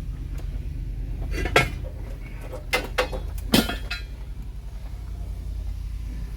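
Hand tools and metal parts clinking and knocking together about four times in quick succession, over a steady low rumble.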